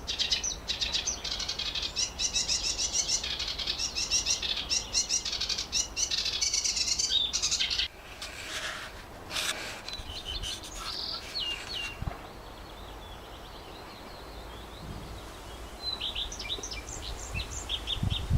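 Songbirds singing: a dense run of quick overlapping chirps and trills that thins out after about eight seconds into sparse, quieter calls, with a short series of chirps near the end.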